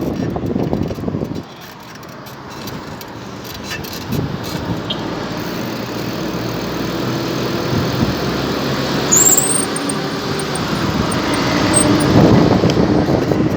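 Road traffic noise from passing cars, a steady rushing that builds slowly to its loudest near the end.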